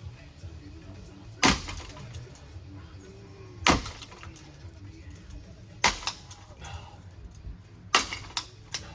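A ceiling fan being hit hard with a tool, four heavy blows about two seconds apart, each a sharp crack with a short rattle after it, and a couple of lighter knocks near the end.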